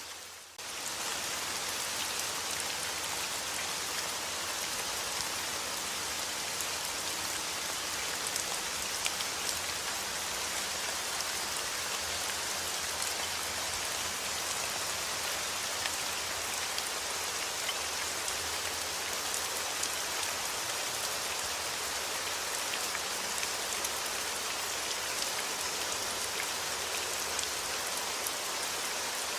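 Steady rain falling: a dense, even hiss of drops with tiny individual ticks through it. The sound drops out for about half a second right at the start, then returns at full level.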